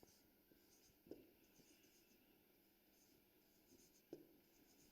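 Faint scratching of writing by hand, with a soft tap about a second in and another near the end.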